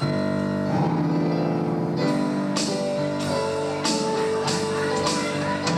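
Instrumental music from the musical's band, with guitar prominent: a loud chord comes in abruptly and holds, with moving notes over it. From about two seconds in, sharp percussive hits come roughly every half second.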